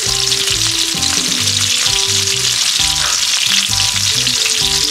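Hot oil sizzling steadily in a wok as sliced shallots, chillies, garlic and lemongrass fry. Background music with short held low notes plays underneath.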